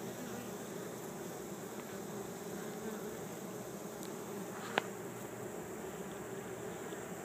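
A swarm of honeybees buzzing steadily at close range as the cluster walks into a newly placed hive body. One sharp click about five seconds in.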